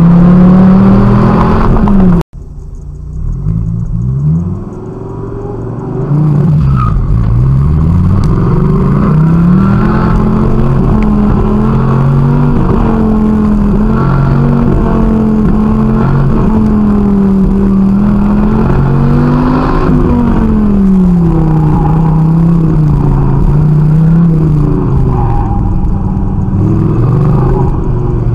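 Dodge Viper's 8.4-litre V10 heard from inside the cabin on an autocross run, revs rising and falling again and again as it accelerates and lifts through the course. About two seconds in the sound cuts off abruptly and comes back quieter, then the engine pulls hard again a few seconds later.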